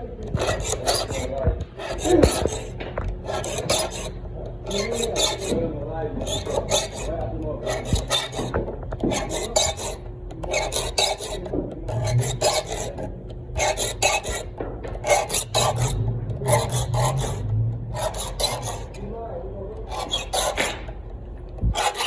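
Handsaw cutting through wood in a steady rhythm of raspy strokes, roughly one a second.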